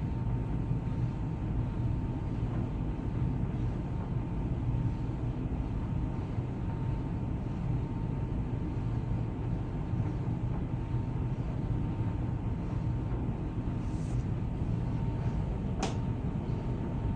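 Samsung 16 kg heat pump tumble dryer running, its drum tumbling a load of bedding with a steady low rumble and a faint constant high whine. A single sharp click near the end.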